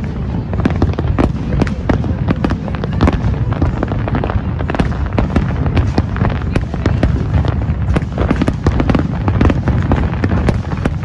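Aerial fireworks display going off in a dense, continuous barrage of sharp bangs and crackles, several a second, over a steady low rumble.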